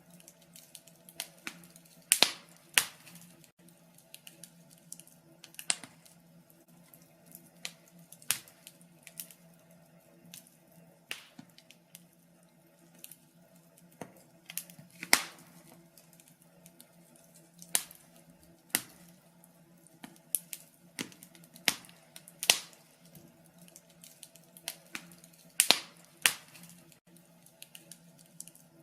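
Wood fire crackling in a fireplace: irregular sharp pops and snaps, a handful of them much louder than the rest, over a faint steady low hum.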